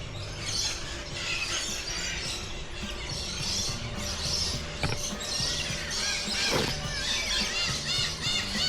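A flock of small birds chirping and squawking together in a dense, overlapping chatter of short high calls, with background music underneath.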